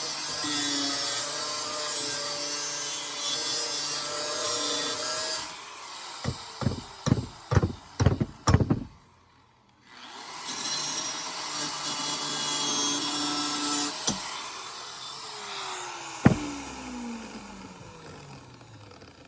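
Power grinder working metal, a harsh steady grind with a motor whine underneath. Midway it stops for a run of about six sharp knocks and a moment's quiet, then grinds again. Near the end the trigger is released and the motor's whine falls in pitch as it spins down.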